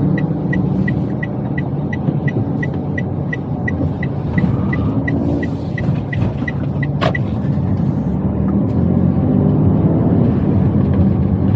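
Toyota Wigo heard from inside the cabin: steady engine and road noise, with the turn-signal indicator ticking about three times a second. About seven seconds in there is a sharp click and the ticking stops. The engine and road noise then grow a little louder as the car pulls away.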